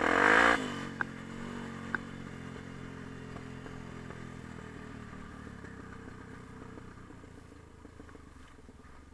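Yamaha TT-R250 dirt bike's single-cylinder four-stroke engine revving briefly at the start, then dropping to a steady lower running note that gradually fades. Two sharp clicks about one and two seconds in.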